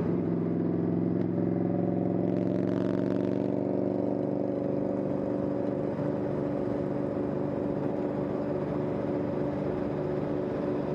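Motorbike engine running at a steady cruising speed, its pitch rising slightly over the first couple of seconds and then holding, with road and wind noise.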